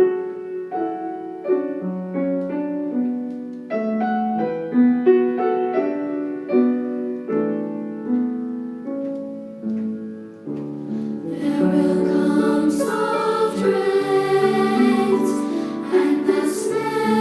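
Gentle solo piano introduction, then a two-part treble choir enters about eleven seconds in, singing over the piano accompaniment.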